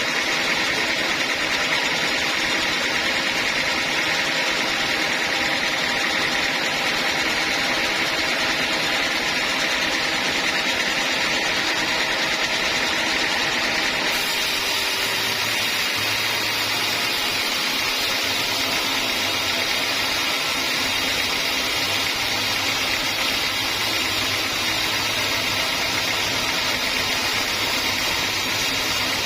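Band sawmill running steadily through teak logs, a constant machine din with a high sawing hiss. About halfway through, the sound changes slightly, and a low hum comes in a couple of seconds later.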